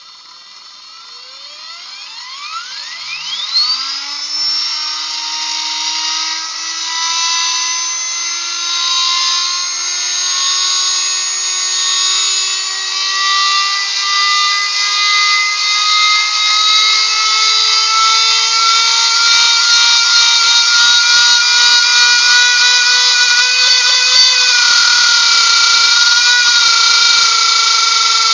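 4700kv brushless motor in a modified miniature Hetty vacuum cleaner spinning up, its whine climbing steeply over the first few seconds. It then runs at high speed with a loud, steady high-pitched whine that creeps slowly higher in pitch.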